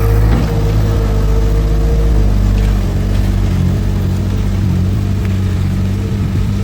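Heavy diesel engine of earthmoving machinery running steadily, with a higher steady whine over it that fades out about two seconds in.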